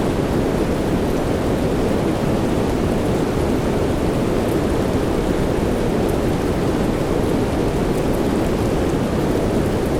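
Steady soft rain noise, deep and even, with faint scattered drop ticks on top and no change in level.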